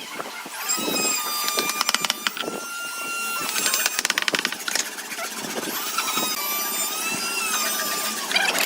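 A high-pitched electric power tool motor spinning up and whining as it runs, its pitch sagging slightly under load, with bursts of rapid rattling and clicking while it works the wood. It starts up twice.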